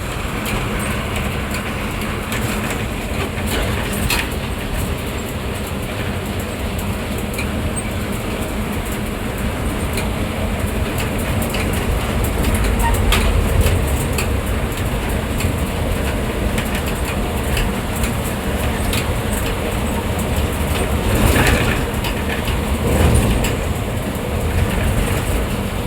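Ashok Leyland state-transport bus on the move, heard from inside the cabin: a steady engine and road rumble with frequent rattling clicks, growing louder around halfway and twice more near the end.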